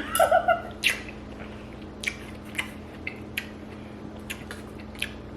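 Person chewing a sweet, sticky snack: a few short, wet mouth clicks and smacks spread irregularly across several seconds, with a brief hum-like murmur at the start.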